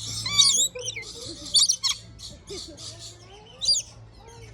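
Parrots squawking and chattering: many short, sharp calls come in quick succession and sometimes overlap, over a low steady hum.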